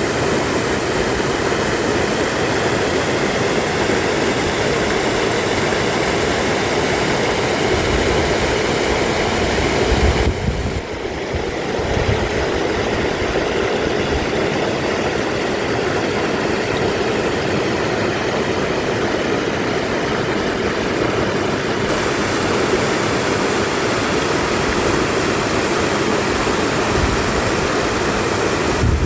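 Mountain stream rushing steadily over rocks in a snowy valley, a constant loud roar of water that briefly drops and changes about ten seconds in.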